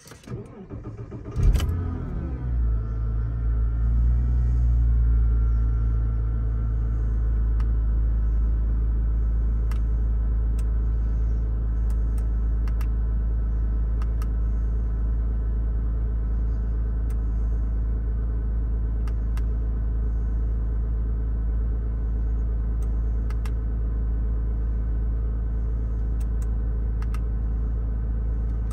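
Porsche 987.1's flat-six engine is cranked on the starter and fires about a second and a half in. It rises in speed over the next few seconds, then settles into a steady idle, heard from inside the cabin.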